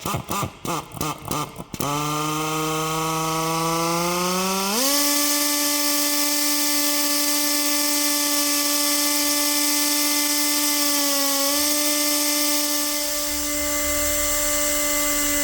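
Pneumatic PD40 torque nut runner (rad gun) undoing a steering accumulator's threaded end cap. It starts with rapid clicking, then the air motor runs with a pitched whine and air hiss. The whine climbs slowly under load, jumps up in pitch a few seconds in as the end cap breaks loose, and then runs steadily until the tool winds down at the end.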